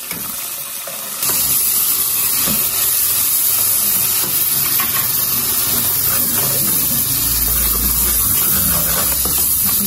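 Ginger-garlic paste sizzling in hot oil with browned onions in an aluminium pressure cooker as it is stirred with a steel ladle; the sizzle jumps louder about a second in and then carries on as a steady hiss.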